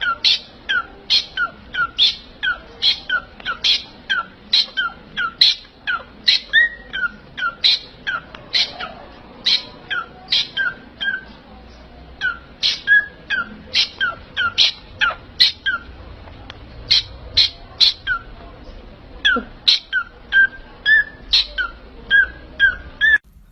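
A parrot giving a long run of short, sharp chirping calls, about two a second, with a couple of brief pauses.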